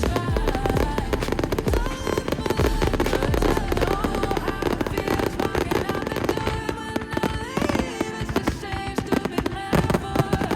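Fireworks bursting in a dense run of rapid bangs and crackles, with music playing alongside.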